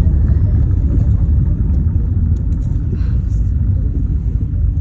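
Steady low rumble of a moving amusement-park train ride, heard from on board.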